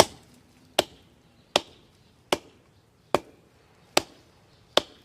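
Hatchet chopping into a very hard log: seven sharp, evenly paced strikes, about one every 0.8 seconds. The wood is so hard that chips no longer fly.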